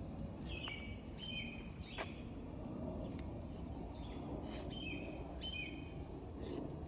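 Bird calling in short high chirps, each a quick note stepping down in pitch, about four times, over a steady low outdoor background hum.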